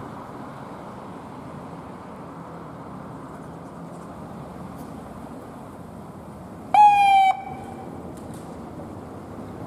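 Steady traffic and engine noise, cut by one short, loud vehicle horn blast about seven seconds in: a single held tone that dips slightly in pitch as it ends.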